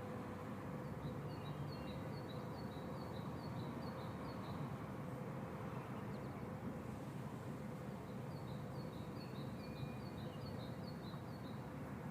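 A small bird singing: a rapid run of short, high, repeated notes, about three a second for several seconds, sung twice. Steady background noise with a faint low hum runs underneath.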